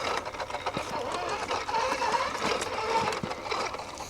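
Small electric RC crawler motor and gearbox whining, the pitch wavering as the throttle changes, with scattered clicks and knocks.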